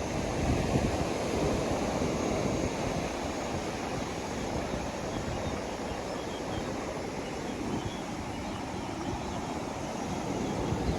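Waves washing onto a beach, a continuous rushing surf that swells and eases gently.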